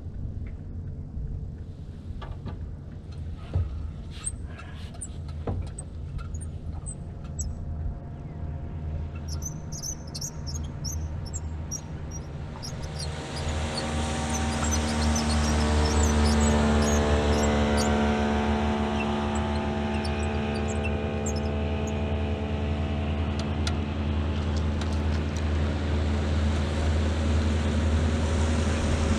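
Boat motor running low at first, then throttled up about thirteen seconds in to a louder, steady cruising drone, with a rushing hiss of water and wind as the boat gets under way.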